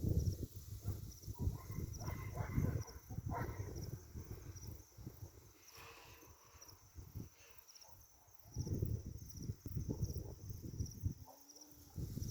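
Crickets chirping in a steady, evenly repeating high pulse, over low rumbling noise that comes and goes, fading in the middle and returning near the end.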